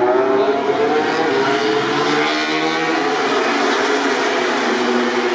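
MotoGP racing motorcycles' four-cylinder engines running at high revs, several engine notes overlapping and slowly rising in pitch.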